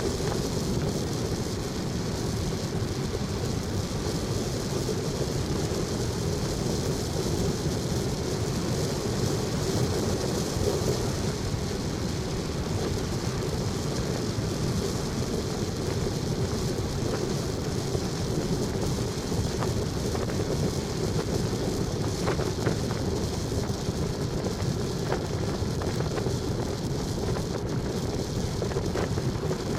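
Steady rumble and hiss of a vehicle on the move, with wind noise on the microphone.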